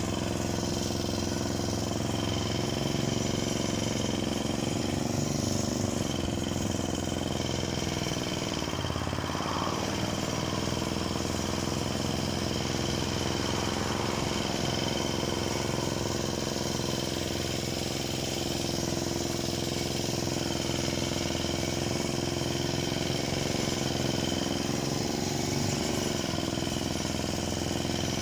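Parma BP-058 two-stroke petrol chainsaw running steadily, its engine pitch sagging briefly about nine seconds in and again near the end.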